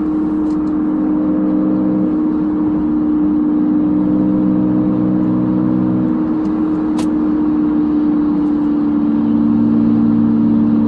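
2011 Nissan Maxima's 3.5 L V6 with custom exhaust droning steadily at highway speed, heard inside the cabin with the windows up; the pitch holds nearly constant, with the lower notes shifting slightly and the sound growing a little louder near the end. A brief click about seven seconds in.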